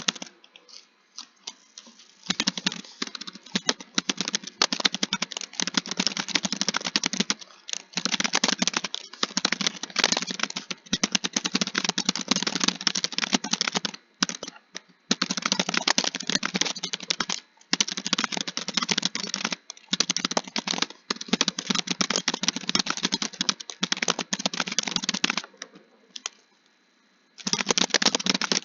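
Fast keyboard typing: long runs of quick key clicks broken by short pauses. It starts with a few scattered clicks, and there is a pause of about two seconds near the end.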